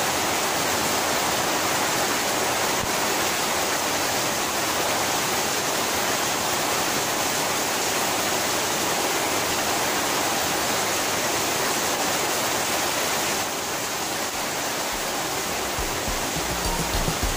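Heavy rain pouring down, with runoff splashing onto wet paving and over a bucket: a steady rushing hiss. Music comes in near the end.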